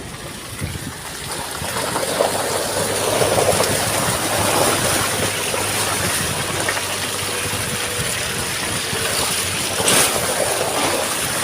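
Car driving on a wet road in drizzle: a steady rushing noise of tyres on wet tarmac and rain, building about a second in, with a brief knock near the end.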